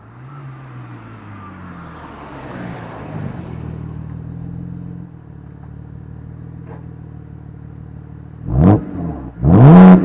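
BMW 328i's N52 straight-six with the muffler deleted (straight pipe to a dual tip), idling, then blipped twice near the end, each rev rising and falling sharply in pitch, the second louder and longer.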